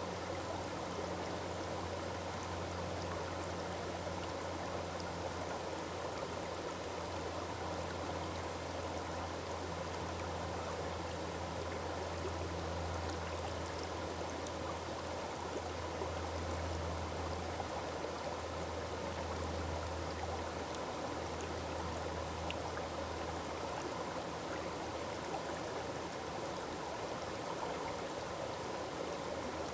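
Forest waterfall: a steady, even rush and splash of falling water with a low rumble underneath.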